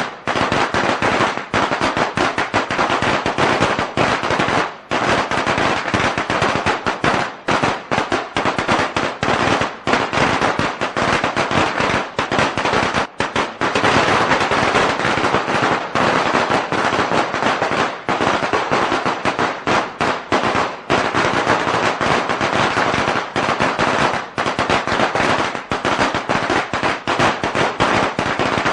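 A string of firecrackers going off in a dense, unbroken rattle of rapid bangs, with only a few brief dips.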